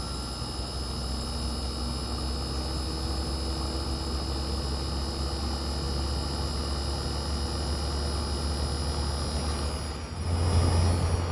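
LG Dual Inverter window air conditioner running through its startup ramp: the variable-speed rotary compressor, with its sound blanket removed, gives a steady low hum with faint whining tones over the fan's air noise. Near the end the hum steps up in pitch and gets louder.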